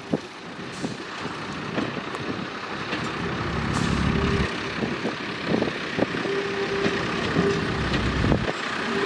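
A railway train running, with a steady rushing noise that grows louder, low rumbles twice, scattered clicks, and a steady tone that comes and goes in the second half.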